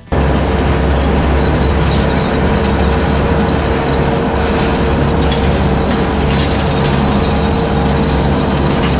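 Skid steer running with a 72-inch brush cutter attachment: a loud, steady mechanical drone with a deep hum and a held whine over it, starting abruptly.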